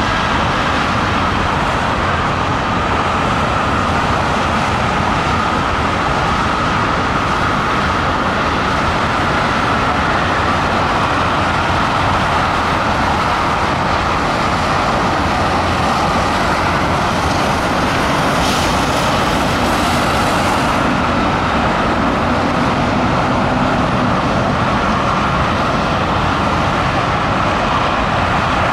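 A freight train of tank cars, boxcars and covered hoppers rolling past steadily, blended with the constant noise of highway traffic.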